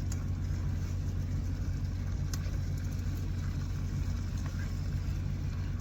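Steady low hum of an idling semi truck engine, heard from inside the cab, with a few faint light clicks over it.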